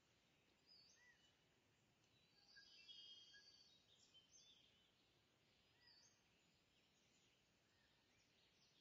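Near silence, with faint bird chirps and short whistled calls in the background, a cluster of them about three seconds in.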